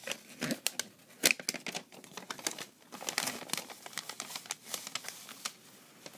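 Paper rustling and crinkling as a folded paper pamphlet is handled, with many short sharp clicks and rustles.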